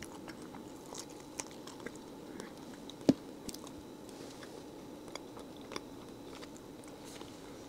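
A person chewing a soft cream cheese garlic pretzel close to the microphone, with small wet mouth clicks and one sharper click about three seconds in.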